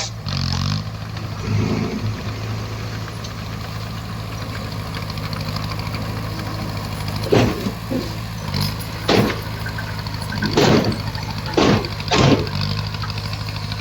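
Bulldozer's diesel engine running steadily, with five short, loud noisy bursts over its last half.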